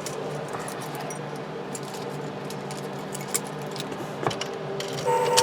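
A bunch of keys jangling with light clicks and knocks as the ignition key is handled before starting the engine. Near the end a steady tone comes on.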